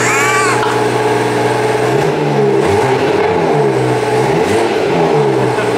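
BMW 440i's 3.0-litre turbocharged straight-six, running through an M Performance exhaust, idles steadily, then from about two seconds in is revved in repeated blips, the pitch rising and falling with each one.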